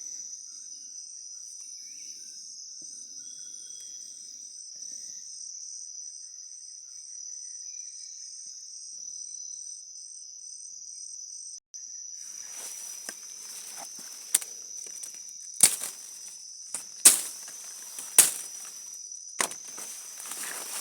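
Steady high-pitched chorus of rainforest insects, with a faster pulsing call above it for the first half. About halfway through, footsteps start rustling through forest floor litter, with several sharp cracks about a second apart.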